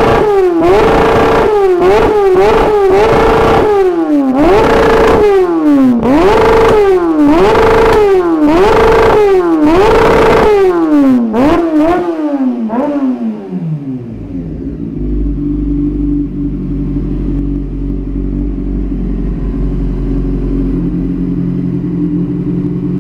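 1999 Honda CBR600F inline-four with a Dan Moto GP-style aftermarket exhaust, blipped again and again in quick revs that rise and fall. It then drops back and settles to a steady idle for the rest.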